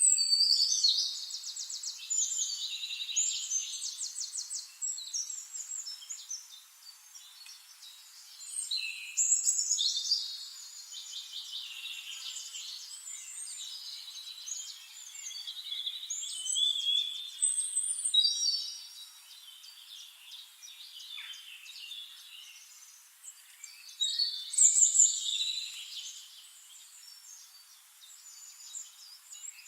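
Songbirds singing in bouts of fast, high trills and warbled phrases, several phrases overlapping, with the loudest bouts at the start, around ten seconds in and near twenty-five seconds.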